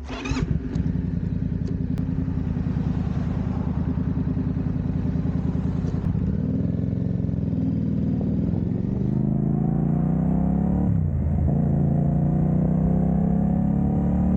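Yamaha MT-07 parallel-twin motorcycle engine running steadily, then rising in pitch as it accelerates from about six seconds in, with a brief dip about eleven seconds in before it climbs again.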